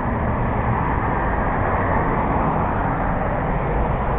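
Steady rumble of road traffic, vehicles running past.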